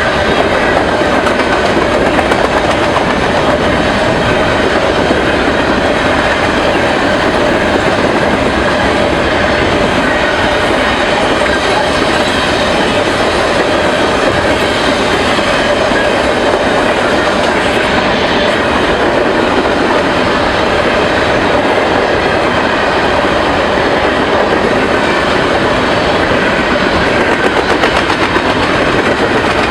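A train passing close by, its cars rolling steadily over the rails in a loud, continuous rumble with a faint ringing hum above it.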